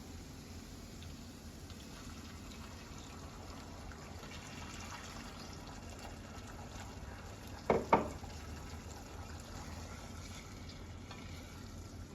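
Cooking liquid sounds, a steady low hiss of food frying or liquid in a pot, with two sharp knocks close together about eight seconds in.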